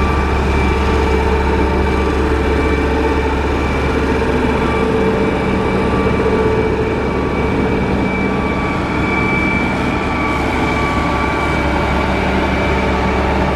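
Motor grader's diesel engine running steadily under load, with a steady high whine over the engine drone.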